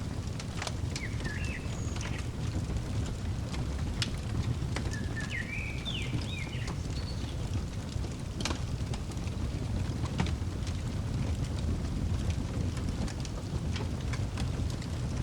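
Fire crackling with scattered sharp pops over a steady low rumble. A bird chirps in short gliding phrases twice, about a second in and again around five to seven seconds in.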